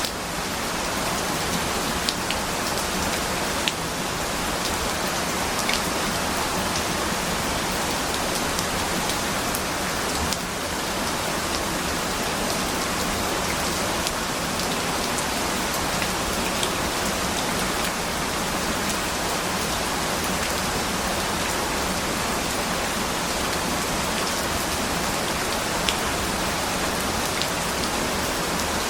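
Steady rain falling: a dense, even hiss with scattered sharp drop ticks.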